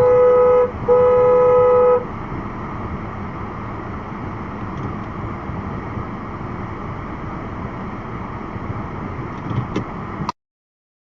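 Car horn honked twice at the start, a short blast and then a longer one of about a second, over the steady hum of a car driving on the road. The road noise cuts off suddenly near the end.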